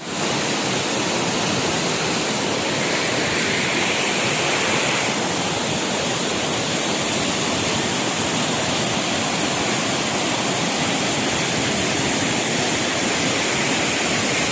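Steady rushing water, like a waterfall or fast stream, holding an even level throughout.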